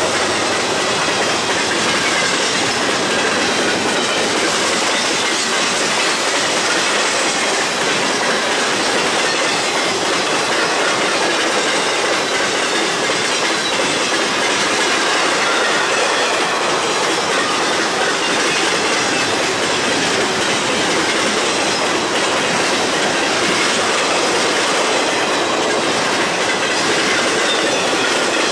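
Freight train rolling past at speed, its steel wheels clacking steadily over the rail joints, with faint wheel squeal.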